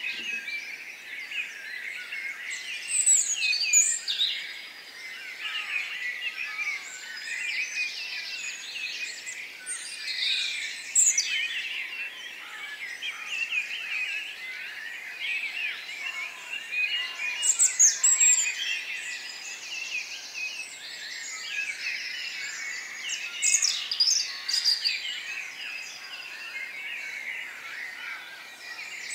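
Many small birds chirping and singing at once, a dense chorus of short chirps and trills with a few louder calls standing out now and then.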